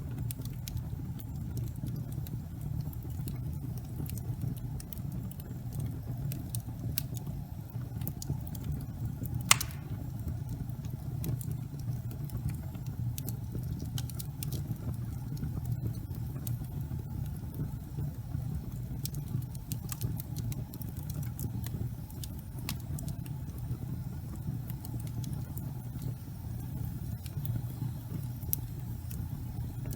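Gas fireplace fire burning with a steady low rumble, dotted with small scattered crackles and one louder crack about ten seconds in.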